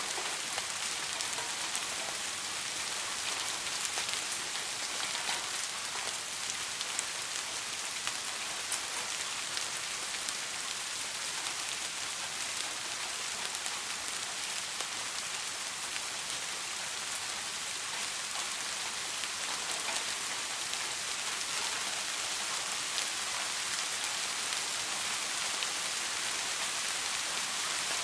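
Steady soft rain falling: an even hiss with many scattered drop ticks.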